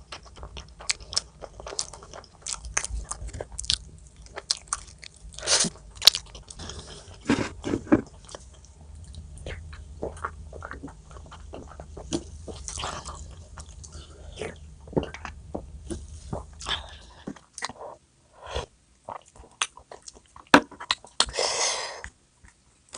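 A person eating close to the microphone: irregular biting and chewing with crunchy, smacking mouth sounds.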